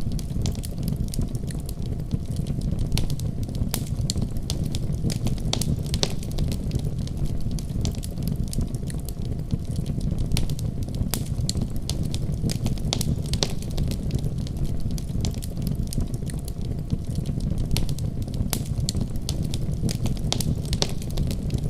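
Wood fire crackling in a fireplace, with frequent sharp irregular pops and snaps over a steady low rumble.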